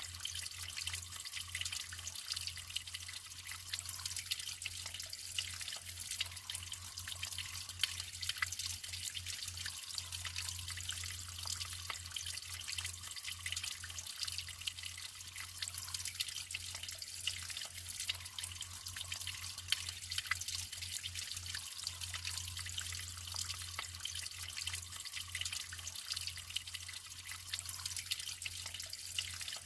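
Naturally flowing water trickling steadily, with many small drips and splashes over a continuous hiss, and a steady low hum underneath.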